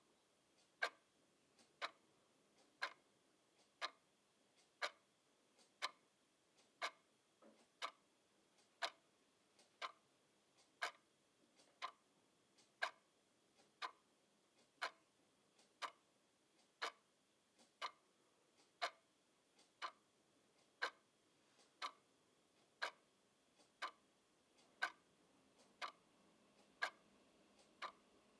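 Clock ticking steadily, one sharp tick about every second, with a few fainter clicks in between.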